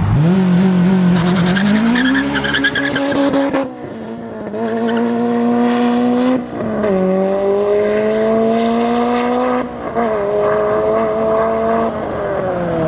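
Honda Civic EP3 race car's K20 four-cylinder engine accelerating hard, revving up through the gears with three quick upshifts where the pitch drops, then the revs falling away near the end as it lifts off.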